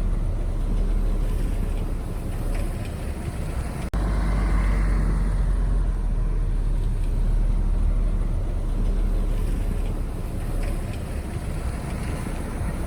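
Diesel engines of heavy earthmoving machines, bulldozers and dump trucks, running steadily with a deep low rumble. The sound breaks for an instant about four seconds in, then a higher whine falls in pitch over the next two seconds.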